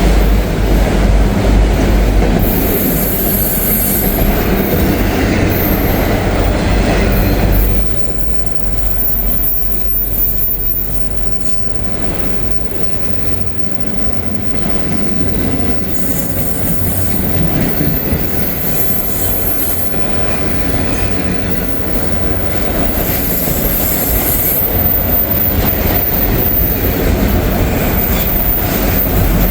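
CSX freight train rolling slowly past with a steady low rumble of cars. The wheels squeal on and off in a very high pitch, as the train takes the switch into the siding.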